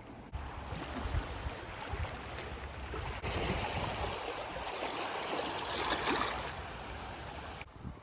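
Strong wind buffeting the microphone, with waves washing against the lakeshore; the sound changes abruptly about three seconds in, where the surf hiss grows louder.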